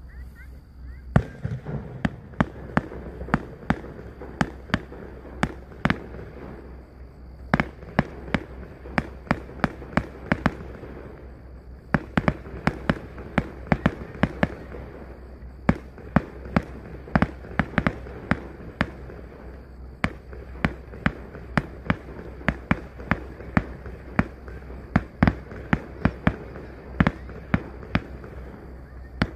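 Aerial fireworks shells bursting in a rapid, irregular series of sharp bangs and cracks, often several a second, with brief lulls between volleys.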